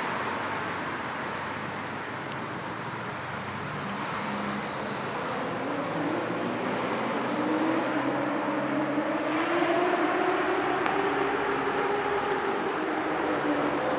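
Steady road traffic: a continuous wash of tyre and engine noise. About a third of the way in, one vehicle's engine rises in pitch and grows louder, then holds and eases slightly near the end.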